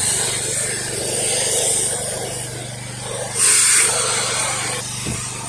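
Soft-wash spraying: a low-pressure stream of bleach-and-water mix hissing against the house, over a steady engine drone from the washing rig. The spray hiss swells louder for about half a second partway through.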